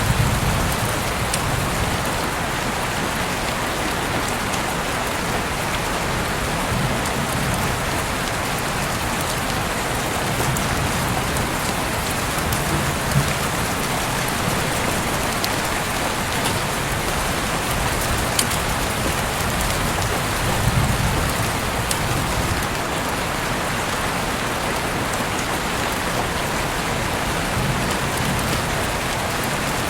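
Heavy rain falling steadily in a dense, even hiss, with a couple of sharper drop taps about halfway through.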